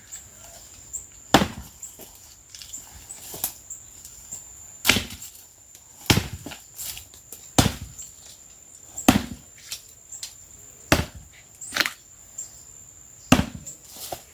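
Axe blows chopping into the trunk of a dead tree, about nine single strikes at an uneven pace of one every second or two. The axe is blunt.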